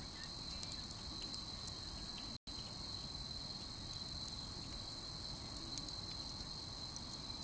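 Crickets chirping in a steady, high-pitched chorus, with scattered small pops and crackles from a wood campfire. The sound cuts out for an instant about two and a half seconds in.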